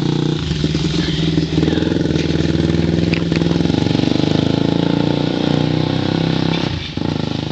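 Dirt bike engine running steadily under way, its note dipping briefly near the end.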